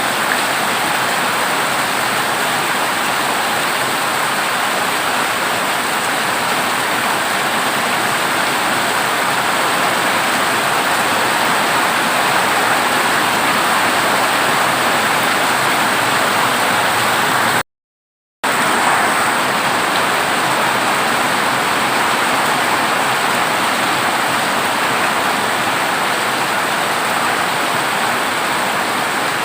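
Heavy rain falling on a dilapidated corrugated zinc roof, a steady dense hiss with no thunder. The sound cuts out completely for under a second about two-thirds of the way through.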